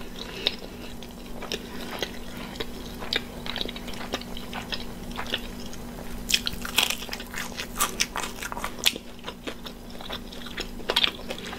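A person chewing and biting cauliflower veggie-crust pizza: irregular crunchy mouth clicks, busiest from about six to nine seconds in, over a faint steady low hum.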